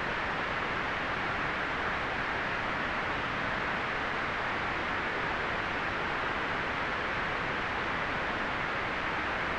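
Steady, unchanging white-noise hiss, strongest in the upper-middle range and thinner in the deep lows and the highest treble.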